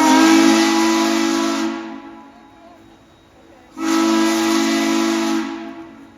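Steam locomotive's chime whistle sounding two long, loud blasts of about two seconds each, the second coming about four seconds in; each blast is a steady chord of several tones. Two long blasts are the standard railroad signal to release the brakes and proceed.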